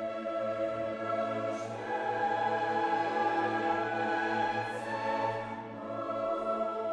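Background choral music with orchestra: voices holding long, slowly changing notes.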